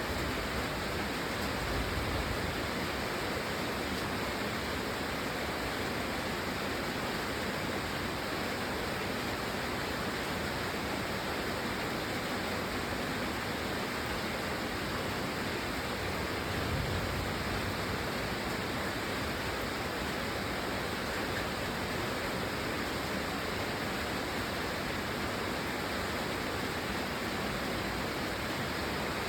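Steady rain, an even hiss with no single sound standing out; a faint low rumble swells briefly twice.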